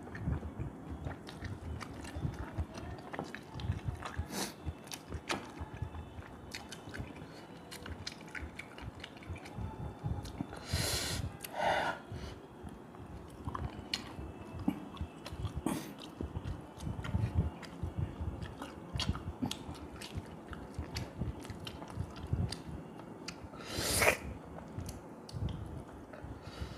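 Close-miked mouth sounds of a person eating fish head meat: wet chewing and smacking with many small clicks. There are two louder, longer breathy noises, one about eleven seconds in and one near the end.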